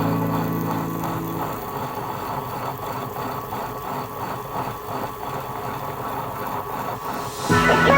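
Electric wet grinder running steadily, its stones turning in the drum to grind soaked dal and rice into dosa batter. Background music fades out over the first second and a half and comes back near the end.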